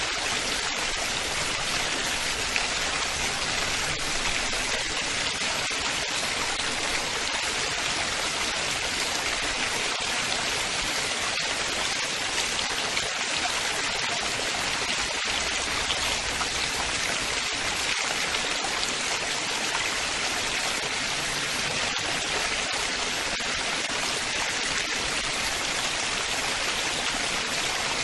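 Running water splashing and trickling in a steady, unbroken rush.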